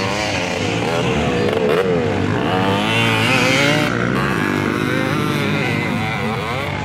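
Motocross dirt bike engines revving, their pitch rising and falling again and again as the riders work the throttle, a little louder in the middle.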